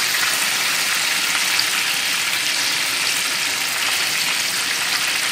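Chicken mince kababs shallow-frying in hot oil, a steady sizzling as they are pressed down with a spatula to squeeze their raw juices out into the oil.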